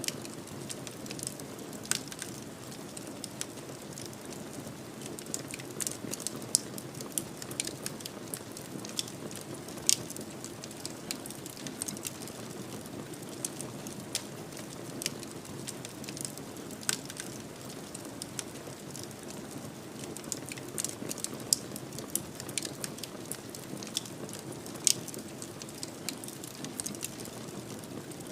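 Wood fire burning in a fireplace: a steady low rumble with irregular sharp crackles and pops, a few louder snaps scattered throughout.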